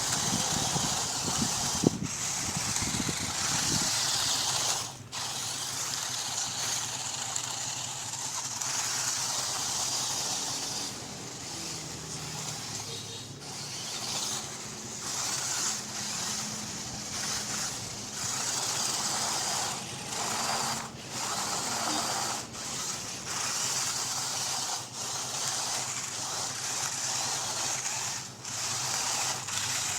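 RC rock crawler's stock electric motor and gear drivetrain whining as it drives in spurts, the pitch shifting with throttle and dropping out briefly a few times. A few knocks near the start.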